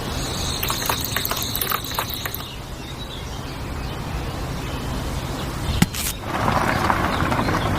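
Small electric motor of a DIY mini tractor running with a steady low hum. Birds chirp for about two seconds near the start, there is a sharp click a little before the end, and then a rougher rushing noise.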